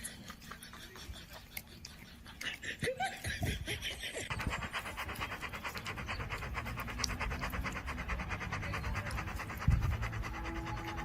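A dog panting fast and evenly, about eight breaths a second, starting about four seconds in. A short low thump comes near the end.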